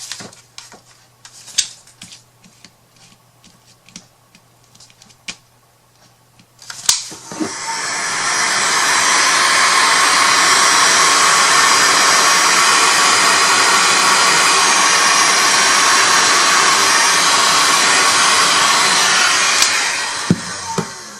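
Handheld electric hot-air blower switched on about seven seconds in, running steadily for around twelve seconds, then switched off, drying freshly sprayed colour mist on a craft piece. Light clicks and handling taps come before it.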